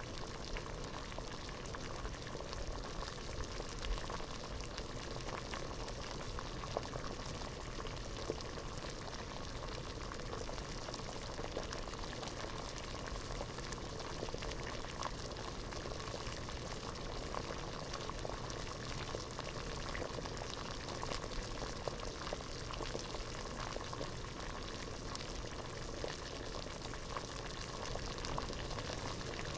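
Water at a rolling boil in a pot, bubbling steadily with a dense stream of small pops and gurgles.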